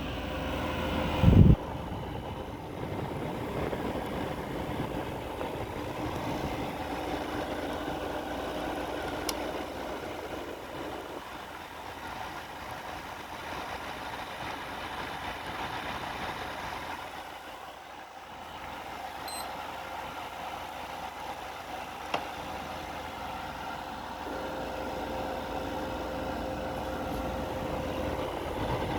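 Midea 5,000 BTU window air conditioner running with a steady hum, with a loud thump about a second in and a brief dip in level about two-thirds through.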